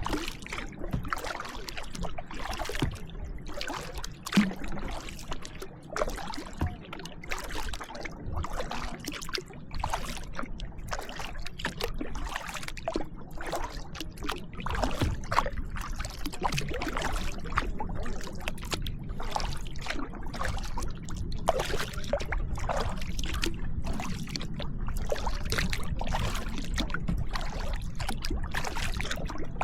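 Kayak paddle dipping and splashing in the water, with water trickling and dripping off the blades in frequent irregular splashes. A low steady rumble runs underneath and grows louder in the second half.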